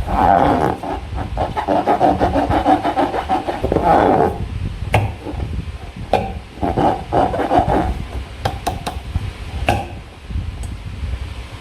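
Latex balloons and slime being squeezed and rubbed by hand: uneven rubbery squeaking and squelching with sharp clicks, thinning to scattered clicks near the end.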